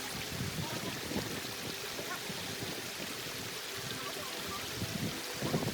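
Steady running water, an even rushing sound without breaks.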